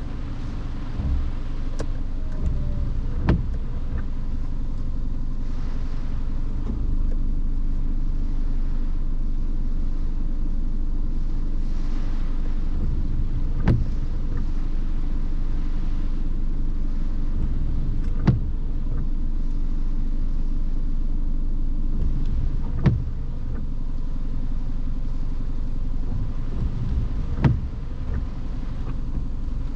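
Car driving on wet roads in the rain, heard from inside the cabin: a steady low rumble of road and tyre noise, with a sharp knock about every four and a half seconds, typical of intermittent windshield wipers.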